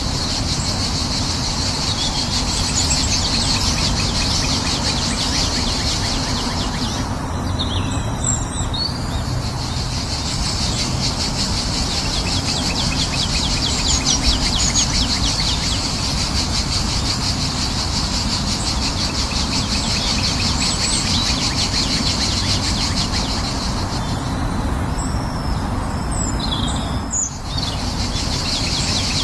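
Birds chirping over a continuous high, finely pulsing hiss and a steady low rushing noise; the high hiss drops out briefly twice.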